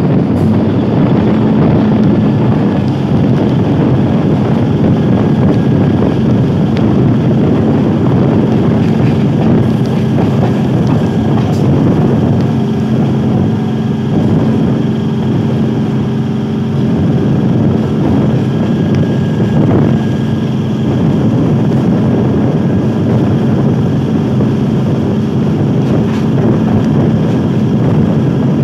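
Electric multiple unit local train running at speed, heard from its open side: a steady rush of wheel and rail noise with wind buffeting the microphone and a steady low hum.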